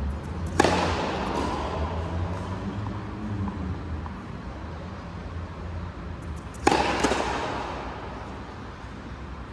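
Two sharp impacts about six seconds apart, each ringing on and fading over about a second in a reverberant hall, over a steady low hum.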